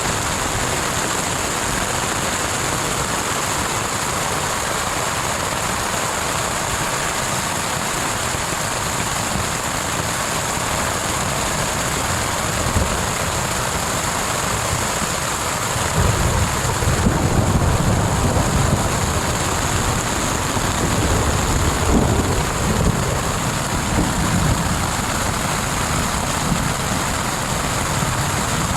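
Thunderstorm: a steady hiss of heavy rain. From about halfway through, an uneven low rumbling joins it, rising and falling.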